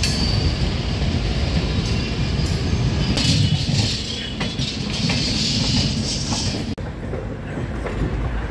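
Passenger train running along the track, heard from on board: a steady rumble of wheels on rails with a few faint clicks. The sound cuts out for an instant about two-thirds of the way through.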